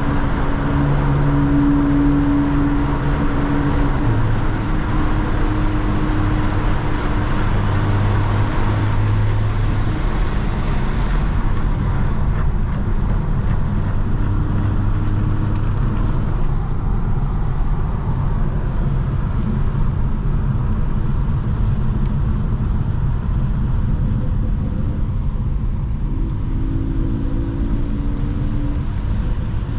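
Mercedes-AMG C43 driving at a steady pace: a continuous engine and exhaust drone over road and tyre noise, its pitch shifting a little now and then as the car changes speed.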